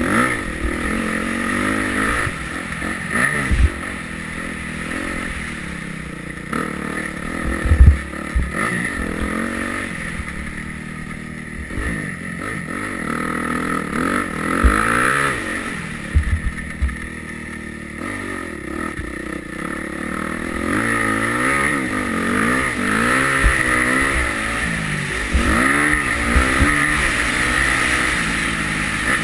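Yamaha YZ250F four-stroke single-cylinder motocross engine revving up and down again and again as the bike is ridden through the gears, with occasional heavy thumps.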